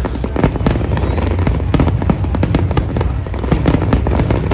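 Large fireworks display with shells bursting in rapid succession: a dense run of sharp cracks and bangs over a constant low rumble.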